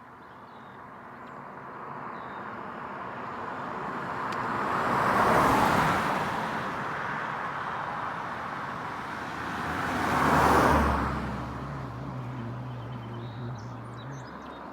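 Two cars pass by on the road one after the other, their tyre and engine noise swelling and fading, the first peaking about five seconds in and the second about ten seconds in. After the second pass a low engine hum lingers for a few seconds.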